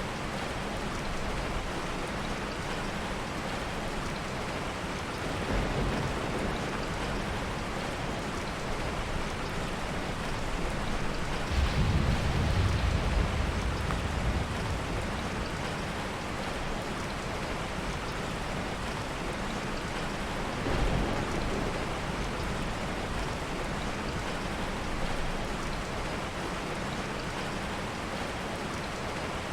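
Steady heavy rain with soft thunder: a low rumble swells about twelve seconds in and lasts a few seconds, with fainter rumbles around six and twenty-one seconds.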